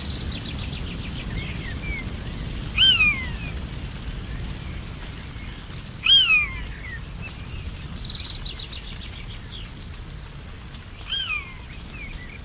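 Forest birds calling. A loud, clear call slides downward three times, a few seconds apart, and a rapid run of short high notes comes twice: at the start and about two-thirds of the way in. Under them runs a steady low background hiss.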